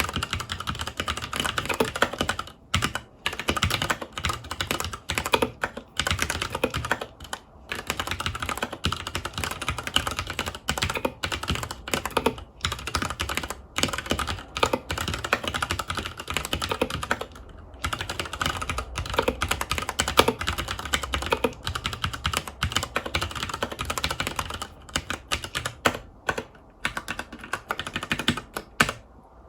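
Continuous fast typing on a FILCO Majestouch 2 Hakua mechanical keyboard with Cherry MX Brown switches, with rapid key clicks and a few short pauses.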